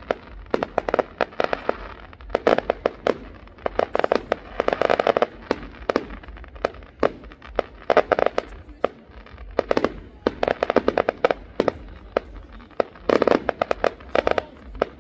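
Fireworks going off in repeated clusters of rapid crackling pops, a new burst every second or two.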